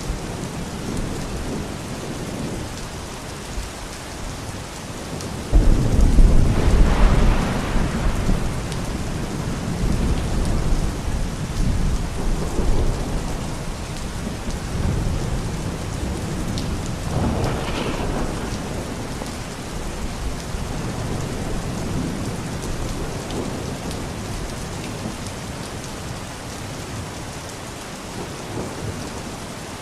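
Steady rain with thunder. A loud thunderclap breaks in suddenly about five seconds in and rumbles on for a few seconds, and a second, weaker roll of thunder comes about halfway through.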